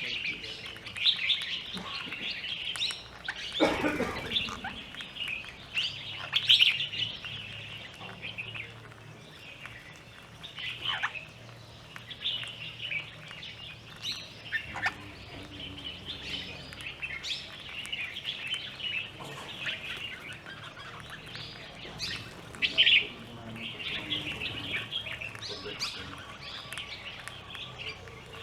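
Birds chirping and calling almost without a break, many short high calls overlapping, with a louder, lower sound about four seconds in and a loud sharp call near the end.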